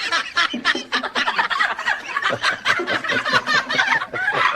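A parrot laughing: a rapid, unbroken run of cackling squawks.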